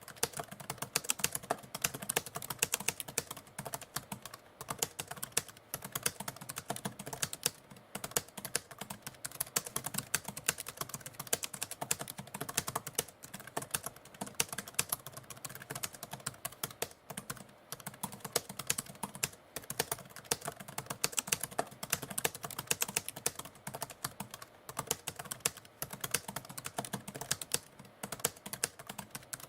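Typewriter keys being struck in a rapid, uneven run of clicks with brief pauses, continuous typing.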